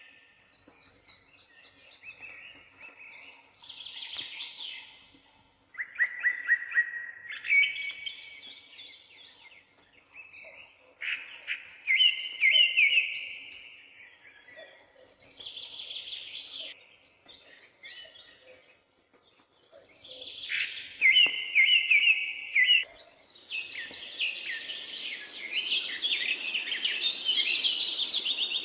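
A songbird singing short phrases of rapid chirps and trills, a phrase every few seconds. A louder, denser chorus of calls sets in for the last few seconds.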